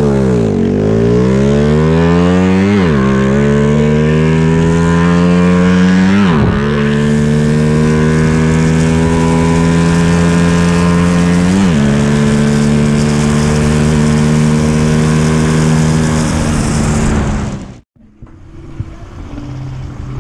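Honda Wave 100 motorcycle's single-cylinder four-stroke engine, built with a racing cam, Koso carburettor and Raider exhaust pipe, accelerating hard through the gears. The note climbs and drops at each gear change, three times, then holds a steady high-revving run before cutting off near the end.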